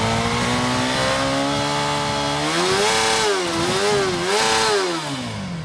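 Small high-revving engine of a home-built John Deere motorcycle held at high revs, around 10,000 rpm. It climbs higher about halfway through, wavers up and down three times, then the revs drop away near the end.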